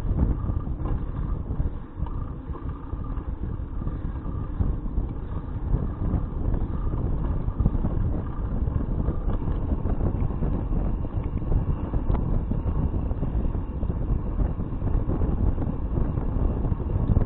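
Wind buffeting an action camera's microphone while riding a bicycle: a steady, gusting low rumble.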